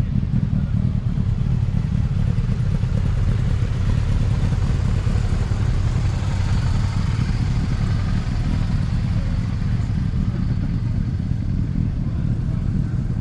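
Motorcycle engines idling, a steady low rumble that does not let up.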